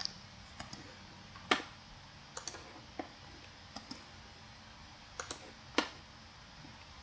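Computer mouse button clicking: a dozen or so short, sharp clicks at irregular intervals, some in quick pairs, as items are selected on screen.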